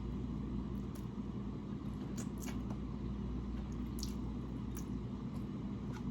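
Close-up eating sounds: a few short wet clicks and smacks of someone chewing ribs, over a steady low hum.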